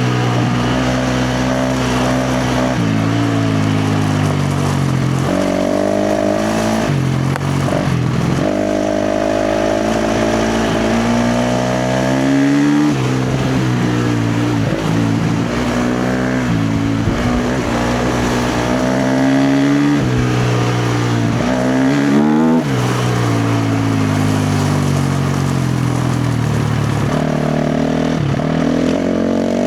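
KTM 350 XC-F dirt bike's single-cylinder four-stroke engine being ridden hard, its pitch climbing and dropping over and over as the throttle is opened and chopped and the gears are shifted.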